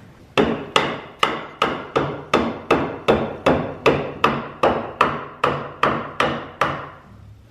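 A hammer striking a wooden joist in a steady run of about sixteen blows, a little over two a second, knocking it into position; the blows stop about a second before the end.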